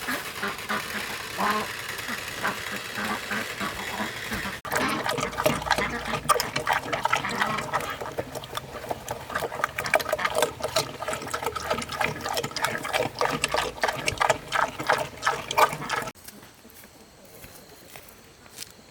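Farm animals calling, with many short clicks and splashy, water-like sounds. The sound changes abruptly about four and a half seconds in, and drops to a much quieter background near the end.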